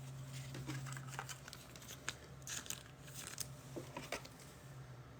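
Faint handling of trading-card packs and cards: scattered light crinkles, rustles and small ticks, with a low steady hum that fades out about two seconds in.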